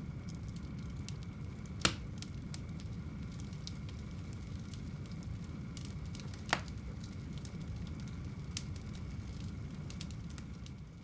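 Wood fire burning in a home fireplace: a steady low rumble of flames with frequent small crackles and two louder pops, about two seconds in and again past six seconds. The sound fades out near the end.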